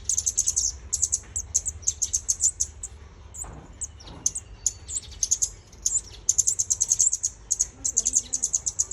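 Ốc mít songbird singing: bursts of rapid, very high-pitched chirps strung into fast trills. There is a thinner, quieter stretch a few seconds in before the trills pick up again.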